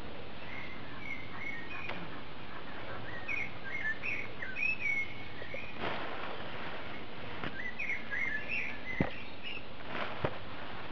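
A bird singing in three runs of short, quick up-and-down chirping phrases over a steady background hiss. Two sharp clicks near the end, with the picker's hand moving through the plants.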